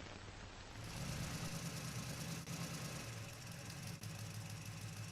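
A steady low hum with hiss, starting about a second in, in the manner of an old film soundtrack or a distant engine.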